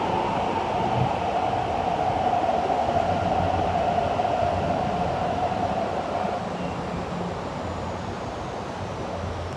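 MTR C-Train electric multiple unit arriving at a station: a steady electric whine slowly falls in pitch as the train brakes and dies out about six seconds in, over the rumble of the wheels, which eases off toward the end.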